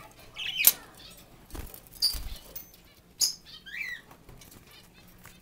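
Caged pet parakeets giving short, scattered chirps, mixed with a few brief rustles and knocks from birds moving about the cage.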